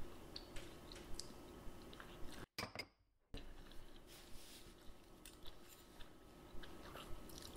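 Faint, close chewing of soft noodles by two people, with a few light clicks of metal forks against small cups. The sound cuts out completely for under a second near the middle.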